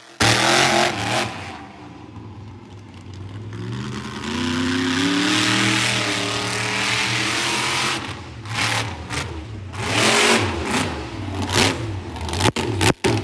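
Monster truck engine revving hard: a loud roar whose pitch climbs about four seconds in and holds for several seconds, then a run of short, choppy revs near the end.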